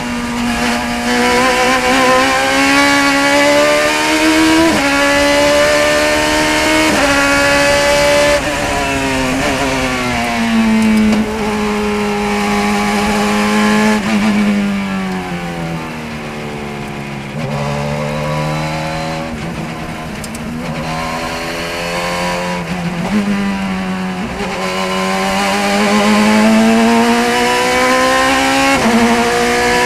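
A racing car's engine at full throttle around a lap, its pitch climbing and stepping down at each upshift. It falls away twice under braking and downshifts near the middle, then rises again as it accelerates out.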